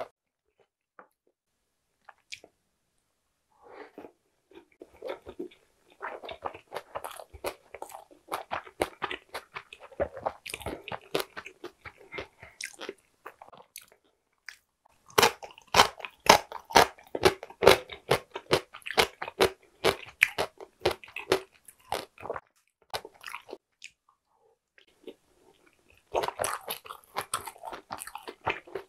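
Close-miked chewing of a soft gyoza-style dumpling. About halfway through comes a louder run of crisp crunches as yellow pickled radish (danmuji) is bitten and chewed. A short lull follows, then more chewing near the end.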